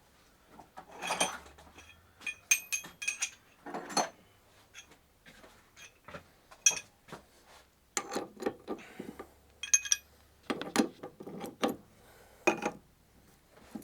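Metal hand tools (wrenches and a strut-nut puller) clinking and knocking as they are handled and fitted on a car's suspension strut mount: a dozen or so irregular clinks, several of them ringing.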